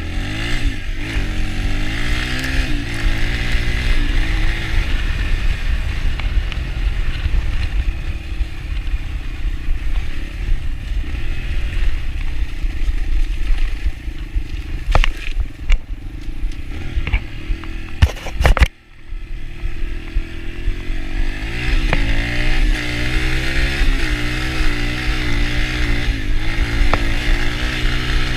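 Yamaha TT-R125 dirt bike's single-cylinder four-stroke engine running while ridden, its pitch rising and falling as the throttle is worked. About two-thirds of the way through come several sharp knocks, and the sound drops out suddenly for a moment before the engine returns.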